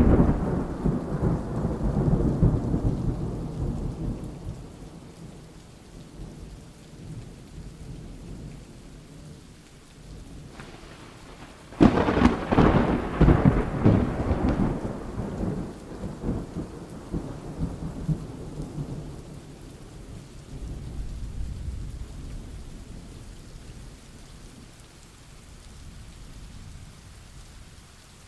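Thunder over steady rain: a peal rumbling away over the first few seconds, then a sharp crack about twelve seconds in that rolls into long rumbles and slowly fades.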